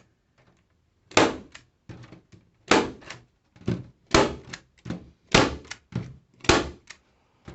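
Staples being driven through metal lath into a wood panel: five loud, sharp knocks roughly a second and a half apart, with lighter knocks in between.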